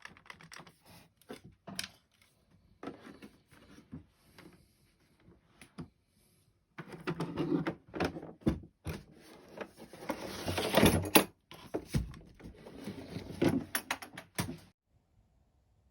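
Handling noise of small hard objects, such as tools and parts on a workbench: irregular clicks, knocks and rattles. They come sparsely at first, then thicker and louder through the second half, and stop shortly before the end.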